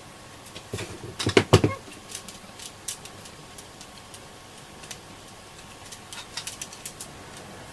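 Bench handling noise from a receiver being taken apart: a quick cluster of sharp clicks and knocks about a second in, then scattered lighter clicks.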